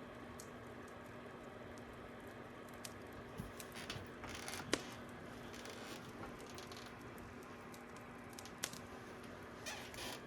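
Faint fire crackling: scattered sharp pops and short bursts of crackle over a steady hiss, with the loudest pop about halfway through. A low steady hum runs underneath.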